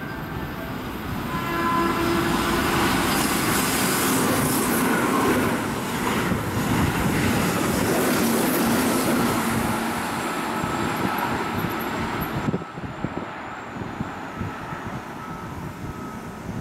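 Keihan 8000-series electric express train running through a station at speed: a loud rush of wheels and air that builds about two seconds in and holds for about ten seconds, with some steady tones early on. It cuts off suddenly to a quieter rumble from a more distant train.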